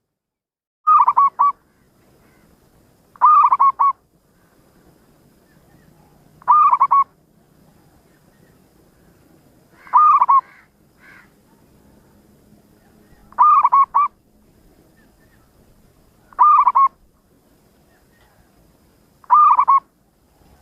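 Zebra dove (perkutut) singing: seven short cooing phrases of a few quick notes each, repeated about every three seconds.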